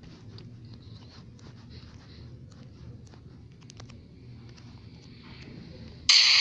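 Faint, scattered clicks and taps over a low steady hum. Near the end a loud, high sound with several tones cuts in suddenly.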